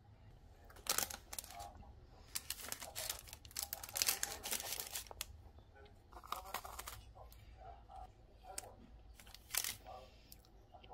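A string of short, irregular crinkling and tearing sounds, like packaging being handled and opened by hand.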